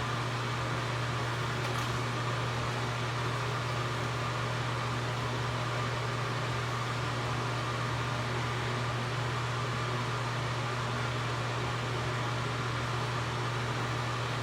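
A fan running: a steady low hum with an even hiss and a faint, steady higher whine.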